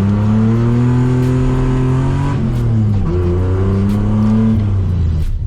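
Nissan Skyline's engine revving hard under a full-throttle launch, pulling high through one gear, dropping for a shift about two and a half seconds in, pulling again, then easing off near the end.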